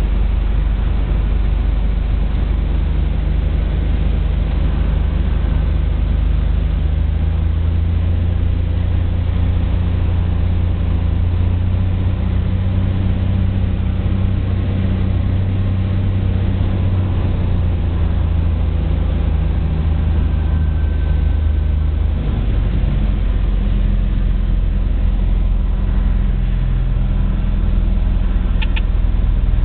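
Cessna 182 single-engine piston aircraft running with a steady, loud low drone from its engine and propeller during the landing approach. The drone changes pitch about 22 seconds in.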